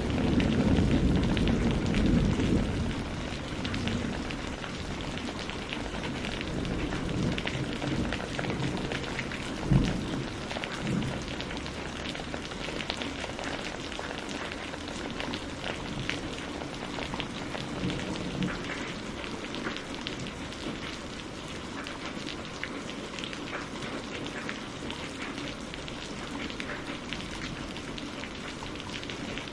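Steady rain falling, with fine drops ticking. A low thunder rumble dies away over the first few seconds, and a single sharp crack comes about ten seconds in.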